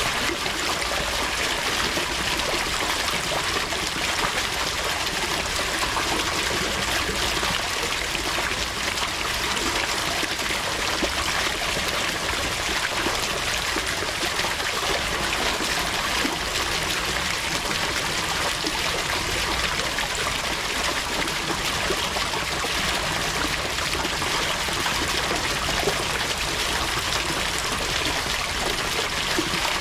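Steady trickling, running water that goes on evenly, with no breaks or distinct splashes.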